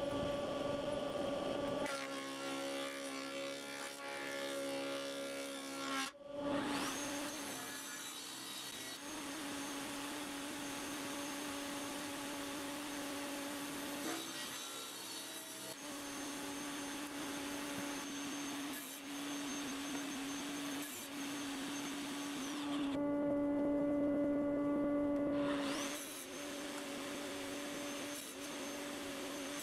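Stationary woodworking machines running as alder boards are jointed, planed and cut to size: a steady motor hum with the rush of the cut. The sound changes abruptly every few seconds, as short clips are joined.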